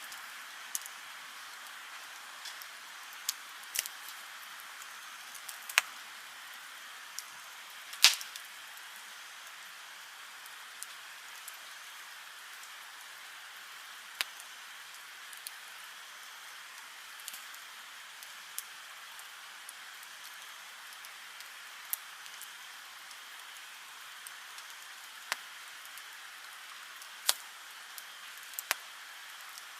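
Wood campfire crackling: a steady soft hiss broken by irregular sharp pops, the loudest about eight seconds in.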